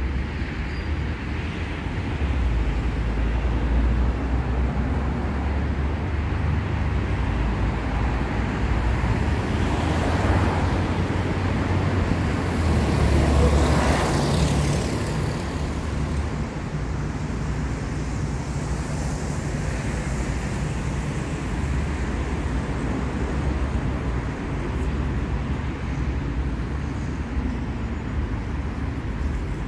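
City street traffic: a steady low rumble of engines and tyres, with one vehicle passing close by about halfway through, its tyre hiss swelling and then fading.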